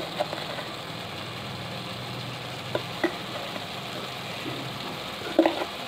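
Spiced biryani masala sizzling in a pressure-cooker pot as a steel spoon stirs it, the spoon clicking and scraping against the pot a few times. A low steady hum runs underneath.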